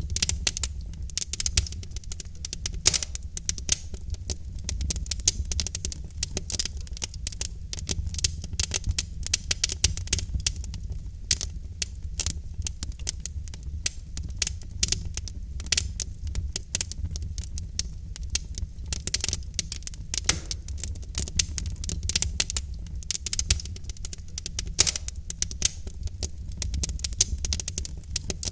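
Burning logs crackling in a fireplace: dense, irregular pops and snaps over a steady low rumble of the fire.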